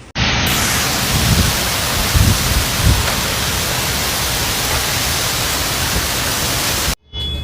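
Heavy rain pouring down in a dense, steady hiss, with a few low rumbles in the first few seconds. It cuts off suddenly near the end.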